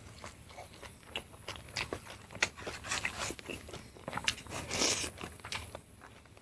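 Close-up eating sounds: a person chewing and biting fresh leaves, rice and boiled pork eaten by hand, with many short wet mouth clicks and crunches. A longer, louder crunch comes about five seconds in.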